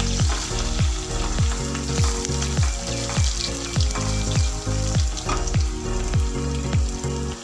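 Chopped onion sizzling in hot oil in a steel pan as it is stirred with a wooden spatula. Background music with a steady beat of about two low drum hits a second plays over it.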